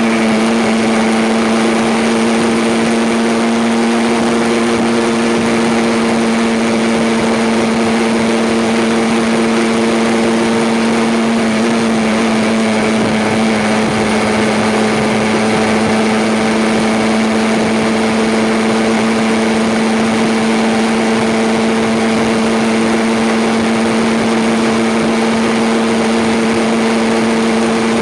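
Aprilia RS125's single-cylinder two-stroke engine running steadily, holding an even pitch throughout.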